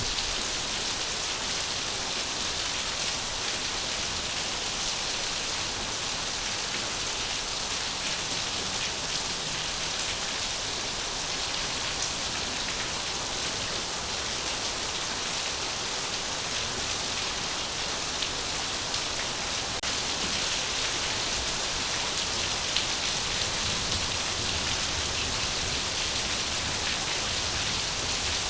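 Steady rain falling on a surface: an even hiss with fine scattered drop ticks, and a few single drops standing out a little louder.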